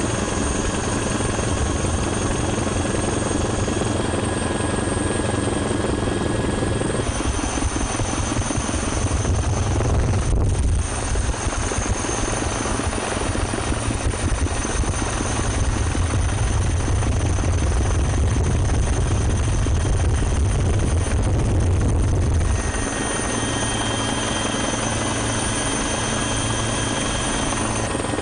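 Helicopter rotor and turbine noise, a steady heavy drone with a low pulsing beat and a high whine, changing abruptly a few times where separate takes are joined.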